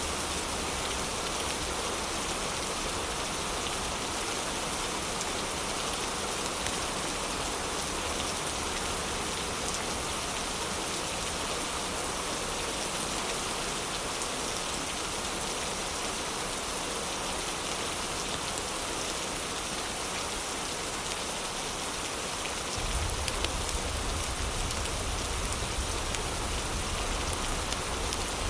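Heavy rain falling steadily, a dense even patter. About three quarters of the way through, a low rumble comes in underneath and stays.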